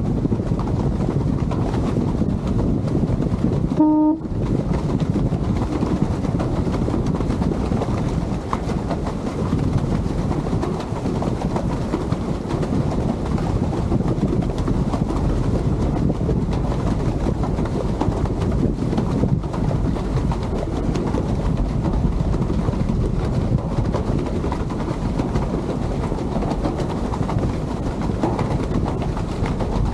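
Lake passenger ship under way: a steady low rumble and rush of engine and water, with wind. A short horn toot sounds about four seconds in and cuts off abruptly.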